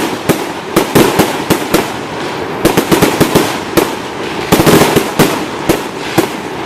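Fireworks display: many sharp bangs in irregular rapid clusters, several a second, over continuous crackling from the bursting shells.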